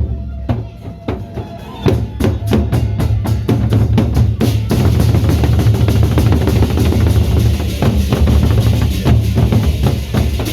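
Loud procession drumming: rapid, evenly spaced drum strikes over a heavy low beat, joined about a third of the way in by a continuous clash of cymbals.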